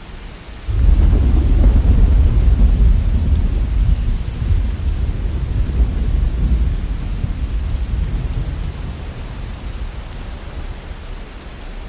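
Heavy rain with a peal of thunder: a deep rumble starts suddenly under a second in, then slowly fades over about ten seconds beneath the steady rain.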